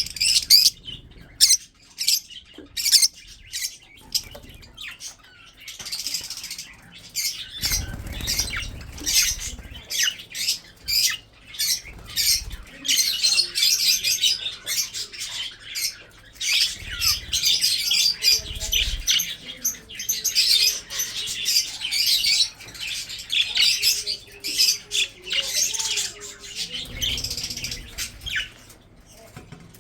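Budgerigars chirping and chattering in rapid short high calls, densest through the second half, with a few low thuds in between.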